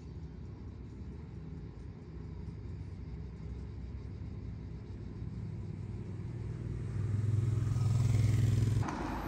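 Low engine rumble of a motor vehicle. It grows louder towards the end, then breaks off suddenly just before the end.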